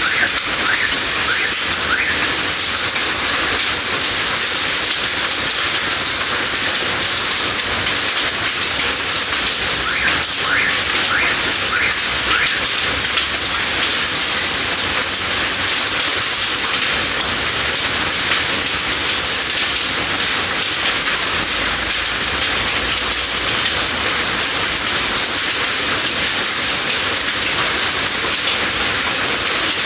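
A hailstorm: hailstones and heavy rain falling hard and hitting surfaces in a dense, steady patter of countless small ticks.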